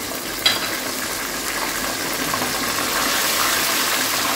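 Ginger-garlic paste sizzling as it fries in hot ghee with browned onions in a wok, stirred with a wooden spoon; the sizzle grows a little louder about three seconds in. A single sharp knock comes about half a second in.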